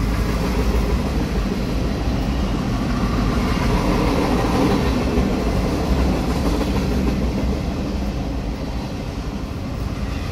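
Cars of a Norfolk Southern mixed freight train rolling past at close range, heard from inside a car. The steel wheels on the rails make a steady, loud rolling rumble and rattle.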